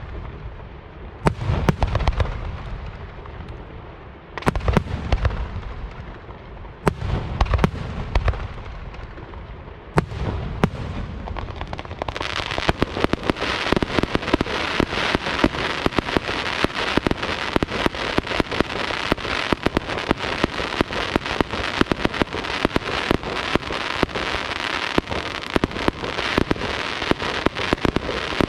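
Aerial fireworks display: four shells burst one after another, each a deep boom with a long rolling echo, two to three seconds apart. From about twelve seconds in, a dense unbroken crackling of many rapid sharp cracks takes over.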